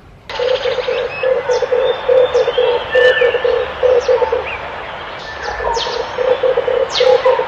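Red turtle dove cooing in rapid pulsed trains of low notes, pausing about halfway through and then starting again. Other small birds chirp over it with short, high, falling calls.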